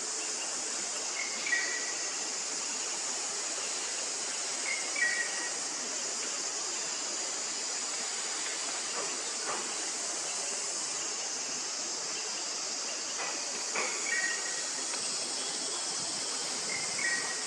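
Steady high-pitched chorus of forest insects, with short high chirping calls four times over it.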